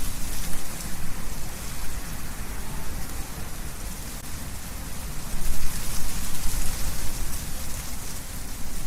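Wind blowing through trees, leaves rustling in a steady hiss with a gusting low rumble; a gust swells about five seconds in.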